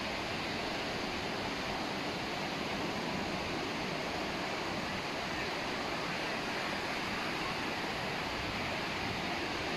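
Surf washing onto the beach in a steady, even rush of noise.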